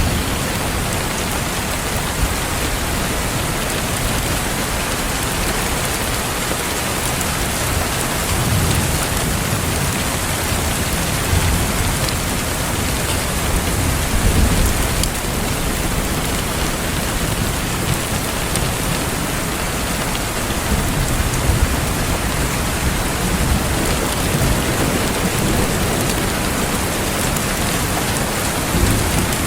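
Steady rain falling, a constant even hiss, with low rumbles of thunder swelling up a couple of times.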